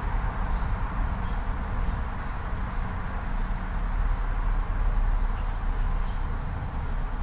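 Steady low rumbling background noise, with a few faint, brief high chirps.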